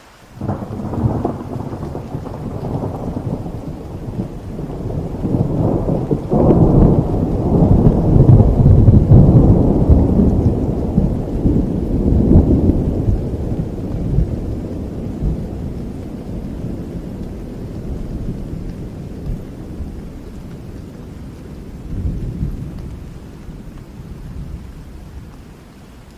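A long rolling thunder rumble over steady rain. It breaks in suddenly about half a second in, swells to its loudest with sharper cracks partway through, then slowly rumbles away, with a smaller rumble near the end.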